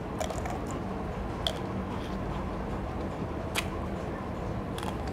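A person biting into and chewing a plum: a few short wet clicks and smacks over a steady low background hum.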